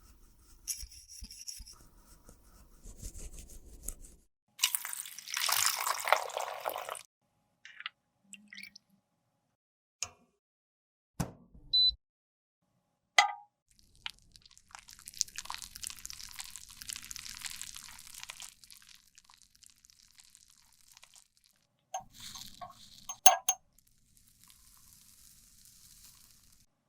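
Close-up handling of makeup products and tools: a couple of seconds of scraping or crushing, scattered sharp clicks and taps, and a longer soft scraping stretch about midway.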